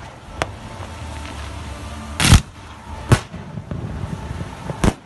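Aerial fireworks shells bursting: four sharp bangs, the loudest about two seconds in, the others at about half a second, three seconds and near the end.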